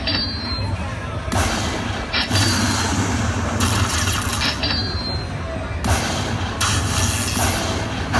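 Slot machine sound effects over casino floor noise: a series of sudden noisy bursts every second or two, several opening with a short high ringing tone.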